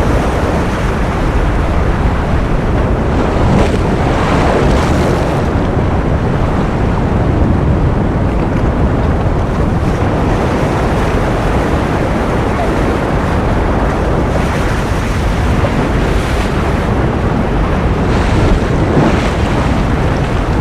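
Ocean surf: a steady, dense wash of waves, with a few brighter swells of hiss rising out of it about four seconds in and again near the end.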